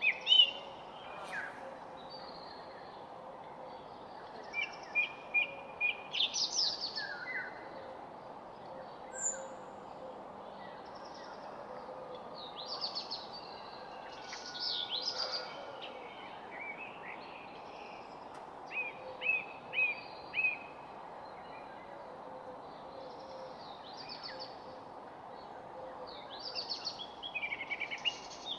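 Several birds calling and singing in short chirps, quick trills and falling whistled notes, coming in scattered clusters over a steady background hiss.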